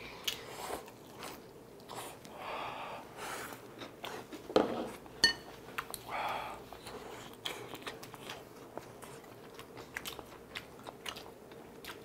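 Close-miked chewing and biting of a batter-fried Korean hotdog and tteokbokki rice cakes: wet mouth clicks and crunches, with two sharp loud clicks a little before the middle and a few short breathy puffs.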